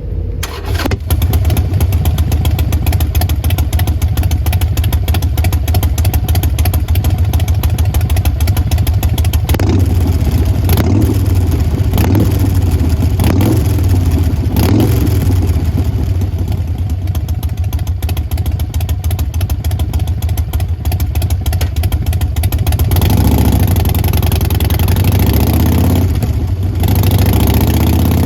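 Harley-Davidson Sportster XL1200X Forty-Eight's air-cooled 1200 cc V-twin running through Vance & Hines Short Shots staggered exhaust: an uneven, pulsing idle, with five short throttle blips about a third of the way in and a longer stretch of higher revs near the end.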